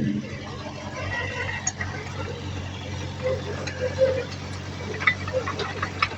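Heavy earthmoving machine's diesel engine running steadily, with metallic clinks, squeaks and a few sharper clanks over it, the clanks coming mostly in the second half.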